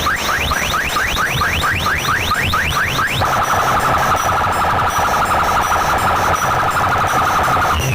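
Siren-like electronic sound effects played very loud through a DJ competition speaker stack over a pulsing bass beat: quick rising whoops, about five a second, then from about three seconds in a steady, fast-warbling tone.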